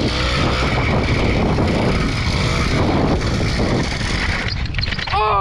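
80cc two-stroke motorized bicycle engine running steadily under throttle, heard from the rider's helmet-mounted camera. About five seconds in, a pitched sound drops sharply in pitch.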